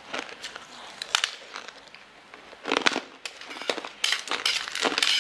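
Close-miked crunching and crackling of a mouthful of small translucent candy discs being bitten and chewed, in clusters of sharp crackles, loudest about three seconds in and again near the end.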